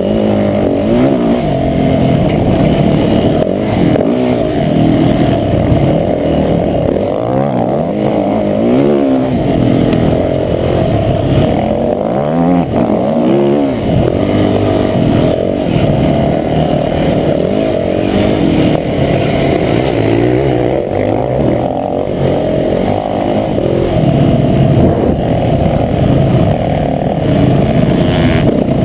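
Motocross bike engine running hard, revving up and down repeatedly as it accelerates and backs off, heard up close on an onboard action camera.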